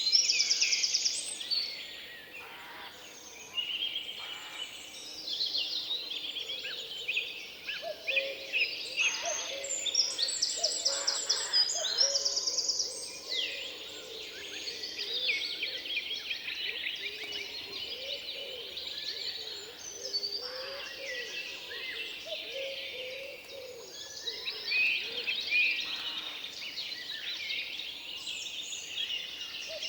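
Woodland bird chorus: several birds singing over one another, with fast, high trills and some lower calls beneath.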